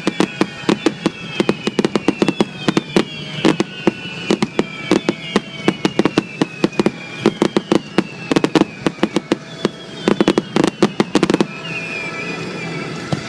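Fireworks going off in rapid clusters of sharp bangs and crackling pops, with faint falling whistle-like tones over them; the bursts stop about three-quarters of the way in, leaving a softer rumble.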